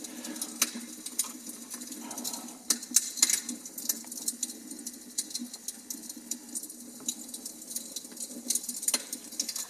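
Irregular crackling and popping of a wood fire, coming from a fireplace video played through a television's speakers, over a steady low hum.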